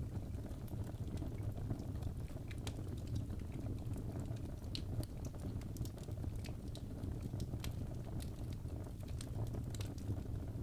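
Fireplace crackling: a steady low rumble of burning wood with frequent irregular small pops and snaps.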